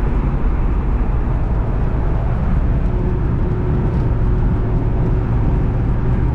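Jeep engine pulling under throttle in 4th gear at highway speed, heard inside the cabin as a steady drone over wind and road noise, with a low hum becoming steadier about a second and a half in.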